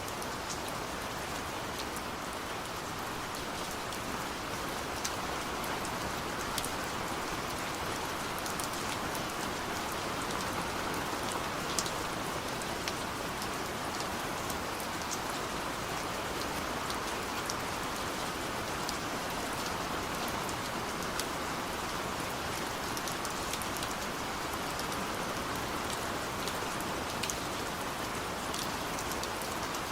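Steady rain falling, with a continuous hiss and many distinct drops pattering sharply on a surface.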